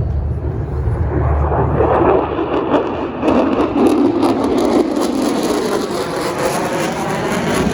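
Jet noise of an F-35C Lightning II's single turbofan engine as the fighter flies its demonstration past the crowd: a loud, steady roar that is strongest in the middle, with a wavering, sweeping tone near the end as it passes.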